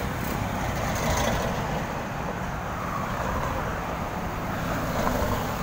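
Steady road and traffic noise with a low rumble, as heard while riding along a road.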